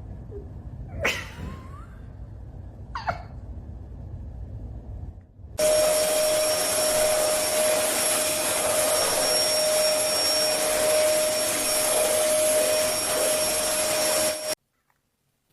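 A small motor running with a steady rush of air and a fixed whine, starting suddenly about five seconds in and cutting off abruptly near the end.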